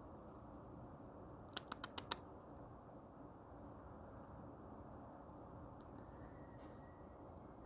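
A quick run of five sharp clicks about a second and a half in, over a faint steady hiss with faint, short, very high chirps scattered through.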